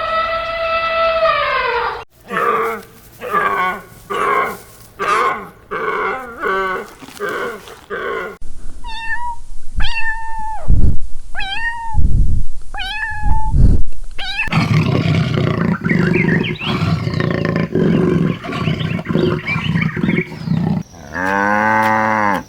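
A run of animal calls from several clips cut together. First comes a long falling call, then a string of short repeated calls, then a set of higher calls with low thumps between them, then a noisy stretch of overlapping calls, and one long call that rises and falls near the end.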